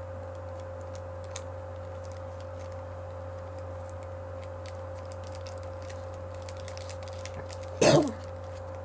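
Steady low hum with faint scattered clicks, then near the end one short, loud vocal sound from the person, falling in pitch.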